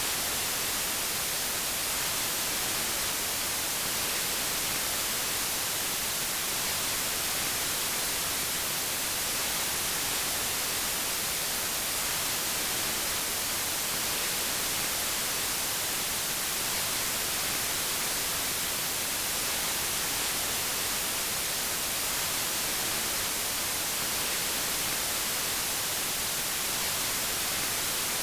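Steady white noise: an even, unchanging hiss with no breaks or changes, strongest in the highs.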